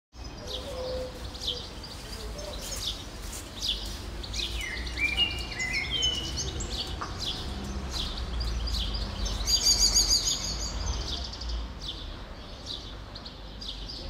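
Several wild birds singing and calling at once: many short high chirps, a run of stepped whistles about five seconds in, and a loud rapid trill about ten seconds in, over a steady low rumble.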